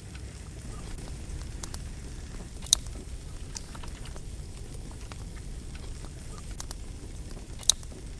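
Wood campfire burning with a steady low rush and scattered small crackles. Two sharp, loud pops of the firewood, one about three seconds in and one near the end.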